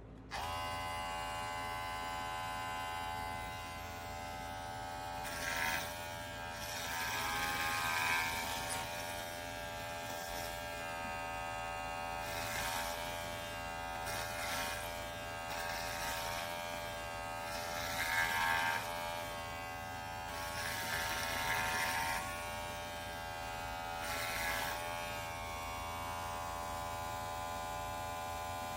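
Cordless electric dog grooming clipper switched on and running with a steady buzz. Every few seconds the sound grows louder and rougher for a moment.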